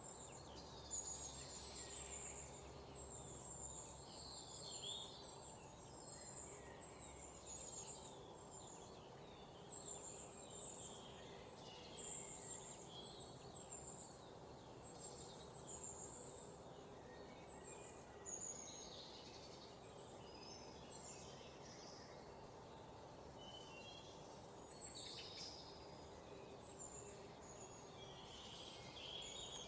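Several small birds chirping and trilling in quick, high-pitched phrases over a steady low background hiss.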